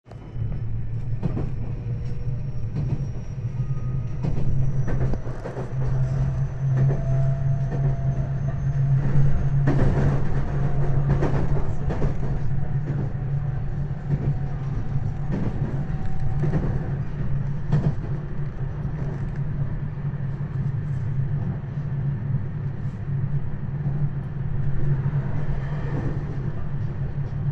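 Running noise heard from inside a JR West 227 series electric train car: a steady low rumble, with the wheels clicking and knocking over rail joints now and then. A faint high whine rises slowly over the first several seconds.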